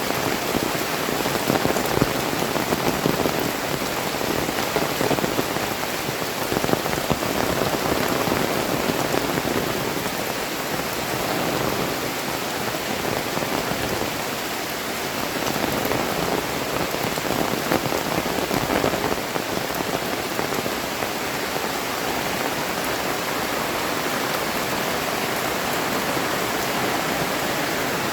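Heavy tropical rain falling steadily, a dense patter of drops on surrounding surfaces.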